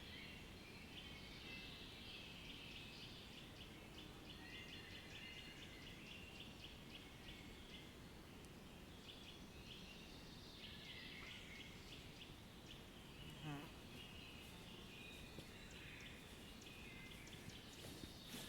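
Faint birdsong: many short chirps and trills from several birds overlapping, over a low, steady background hiss, with one brief lower call about thirteen seconds in.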